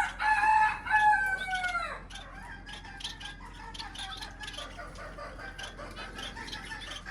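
A bird's loud drawn-out call lasting about two seconds, in two parts and falling in pitch at the end, followed by steady chirping and chatter of many small birds.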